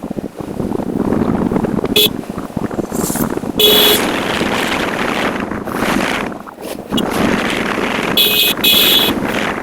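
Motorcycle riding in traffic, with engine, road and wind noise on the microphone. A vehicle horn honks briefly about two seconds in, again a little after three and a half seconds, and several times in quick succession near the end.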